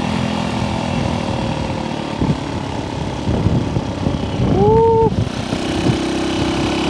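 Small vintage motorcycle engine running under way, with wind buffeting on the microphone. A short vocal whoop from the rider comes about two-thirds through, and the engine note steadies near the end.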